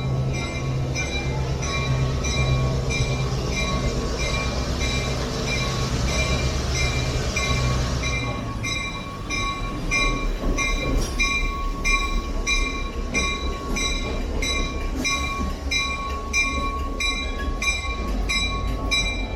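Railroad sounds inside a railway museum: an evenly repeating ring about twice a second, like a signal or locomotive bell, over a low locomotive rumble that fades about halfway through.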